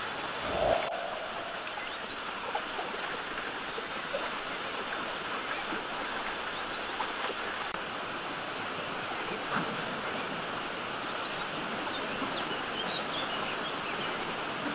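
Steady rushing outdoor noise, with a few faint high chirps near the end.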